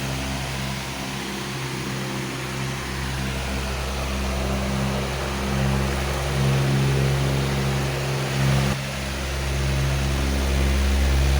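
Powerful electric fan running steadily: a low motor hum under a broad rush of air, swelling and easing a little.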